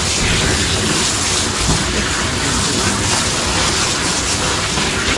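Water spraying steadily from a bathing-tub sprayer, rinsing shampoo out of a dog's coat.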